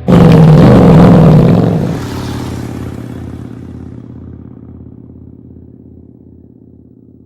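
Harley-Davidson V-twin motorcycle engine blipped loudly for about two seconds, then dropping to a lumpy, pulsing idle that fades steadily away.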